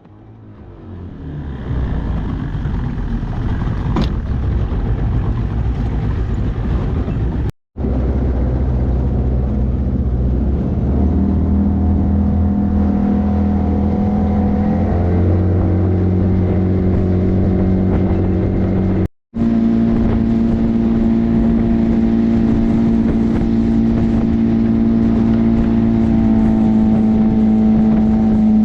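Boat motor running under way, a steady loud drone whose pitch steps up a couple of times and then holds; the sound cuts out briefly twice.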